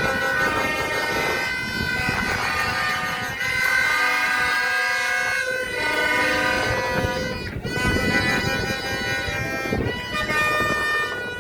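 Horns blowing in long, held, steady blasts, one after another, with the pitch changing between blasts.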